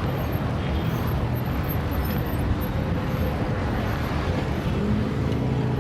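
Heavy city traffic: a steady mix of car and bus engines and road noise, with a low engine hum coming through more clearly near the end.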